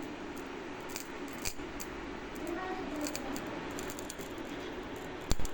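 Irregular crackling and snapping of electrical arcing inside a wall switch on a switchboard, a sign of a failing switch whose internal components the electrician blames for the sparking. A sharp knock near the end.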